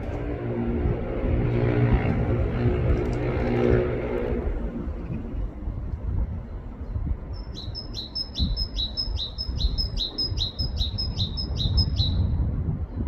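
A car passes in the first few seconds, its engine fading out. Then a great tit sings its see-saw two-note song, a high note dropping to a lower one, repeated quickly about a dozen times before it stops abruptly.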